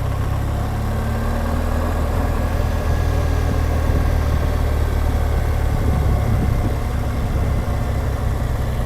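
BMW R1200GSA's boxer-twin engine running steadily as the motorcycle is ridden, a low, even drone.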